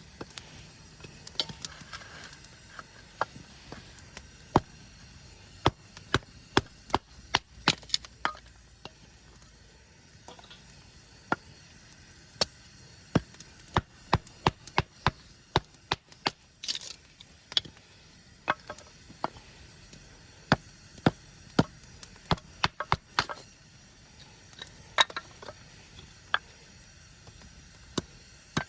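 Many sharp knocks struck by hand at an irregular pace, in quick runs with short pauses between them, like a hammer or hatchet hitting repeatedly.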